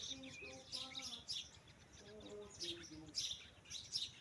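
Small birds chirping in quick repeated high calls, with faint talking underneath.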